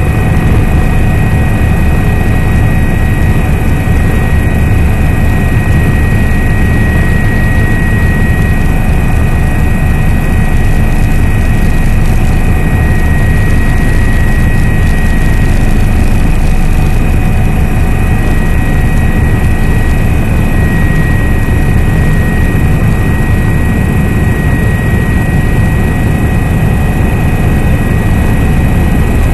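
Helicopter running: loud, steady rotor and engine noise with a rapid low beat and a steady high whine.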